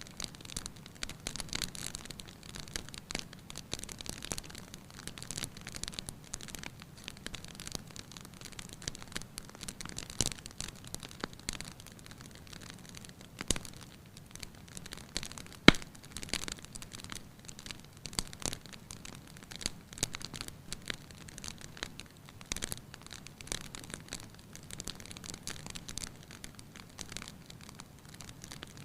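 Wood fire burning in a fireplace, crackling with irregular small pops over a soft steady rush, and one loud snap a little past a third of the way through.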